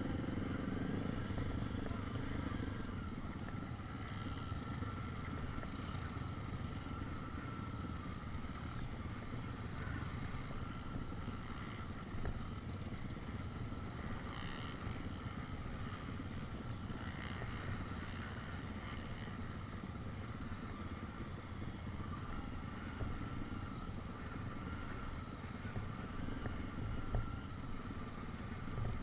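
Motor vehicle running steadily: a continuous low, noisy rumble with faint steady tones higher up and no clear change in speed.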